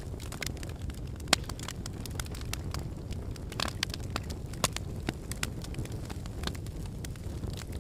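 Wood fire burning in a fireplace: logs crackling and popping irregularly over a low steady rumble of flame, with a few sharper pops, the loudest about a second in and again past the middle.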